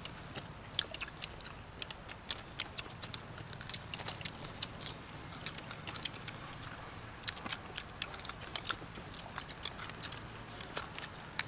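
Several people chewing and eating fried chicken with their fingers: a steady run of small smacking and clicking mouth sounds.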